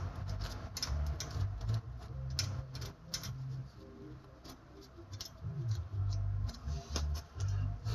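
Scattered light clicks and taps of hands working on a reassembled front wheel hub, over a low bass rumble that comes and goes.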